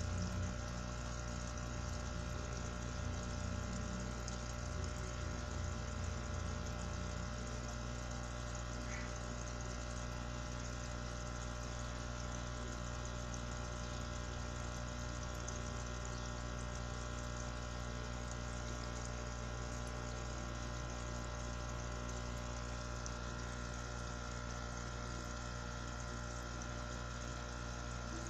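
Aquarium pump running with a steady hum and a constant wash of moving water, with some uneven low rumbling in the first several seconds.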